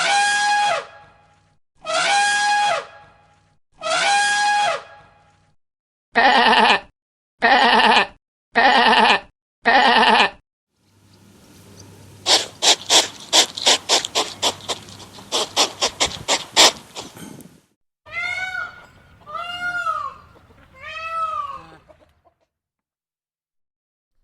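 A run of calls from several different animals. First come three long calls about two seconds apart, then four short calls in quick succession. After that is a rapid pulsing chatter lasting about six seconds, and finally three short arching calls that rise and fall in pitch.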